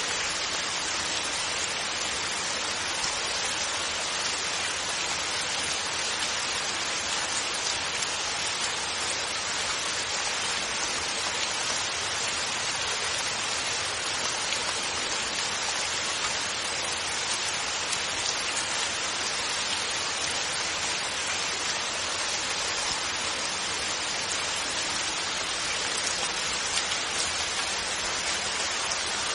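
Steady rainfall without thunder: an even hiss of rain with faint drop patter, unchanging throughout.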